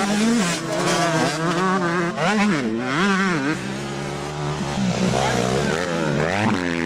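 Motocross bikes racing on a dirt track, several engines revving up and down in quick rises and falls as the riders work the throttle.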